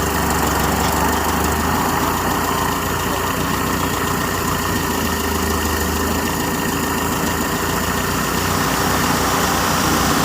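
Engine idling steadily, running after its ignition timing has been set.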